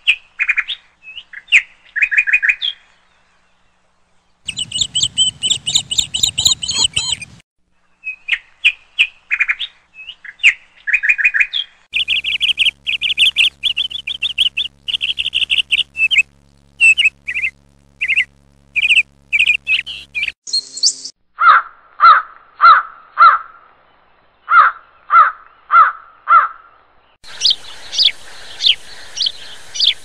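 Birds chirping and calling in short, quickly repeated notes. The calls change abruptly several times, and in the latter part there is a run of lower, evenly spaced calls about twice a second.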